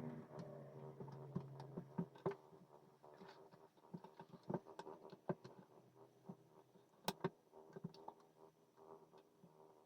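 Scattered light clicks, taps and scratches of a puzzle being handled, at irregular intervals, the sharpest about seven seconds in.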